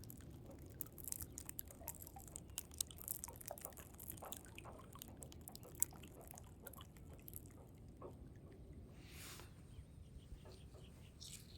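Water trickling and dripping among stones: many small, quick splashes and drips over a low steady rush, with a brief hiss about nine seconds in.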